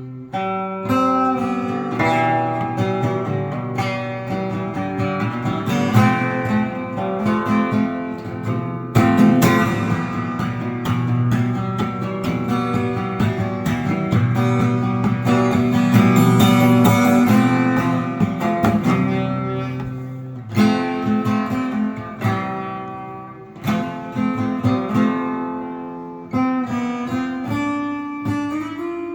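Acoustic guitar playing on its own, chords strummed and picked with changes every second or two.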